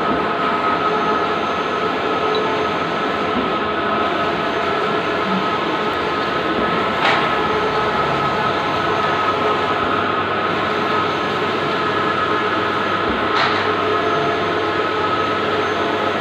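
Bluewin large-format outdoor printer running: a steady mechanical whir with a faint hum. A sharp click comes about seven seconds in and again about six seconds later.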